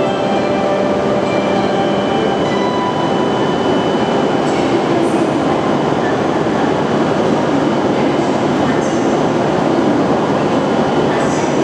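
Hokuriku Shinkansen train running alongside the platform: a loud, steady rush of rolling and running noise, with a few brief high-pitched squeaks or hisses.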